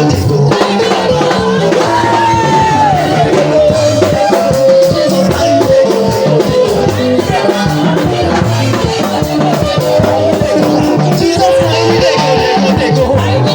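Live church band playing an Ibibio praise medley: a moving bass line under melodic lines, with shakers and drums keeping a steady beat.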